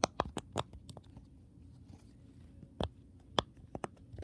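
Silicone pop-it fidget toy's bubbles popping under the fingers: a quick run of four pops, then a few more spaced pops near the end.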